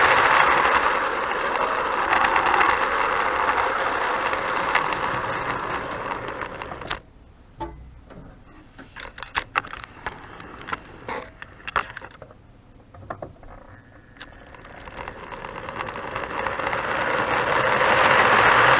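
A train running on its track with a steady rattle that fades away about seven seconds in. While it is distant a few sharp clicks sound, and then it grows louder again as it comes back.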